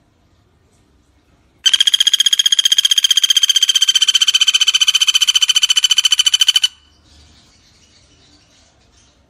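Common flameback woodpecker (pelatuk bawang) giving one long, rapid rattling call of about a dozen even notes a second at a steady, high pitch. The call starts a couple of seconds in and breaks off after about five seconds.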